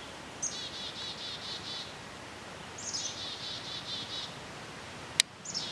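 A songbird singing the same short song three times, each a high opening note followed by a quick run of about seven repeated notes, over a faint steady woodland hiss. A single sharp click sounds near the end.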